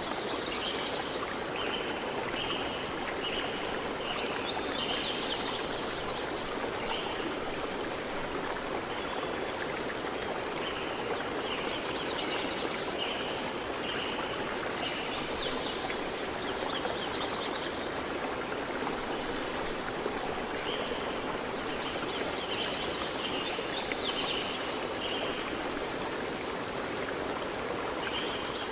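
A stream flowing steadily, with a small bird singing over it three times: each song a series of short chirps followed by a quicker, higher trill.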